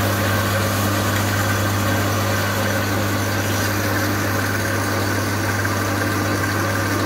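Electric power sander running steadily with a strong low motor hum and the hiss of abrasive, as a knob is sanded into shape.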